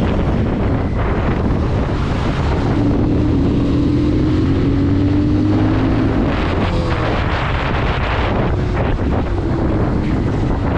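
Bajaj Pulsar 220 motorcycle running along at speed, its single-cylinder engine's rumble mixed with heavy wind buffeting the microphone.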